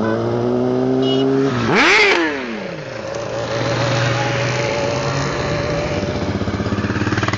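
Motorcycle engines running. About two seconds in, one engine revs sharply up and drops back, the loudest moment, and then the engines settle to a steady run.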